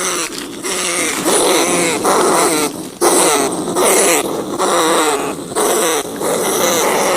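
Rats giving repeated harsh, wavering squeals in short bouts, roughly one a second.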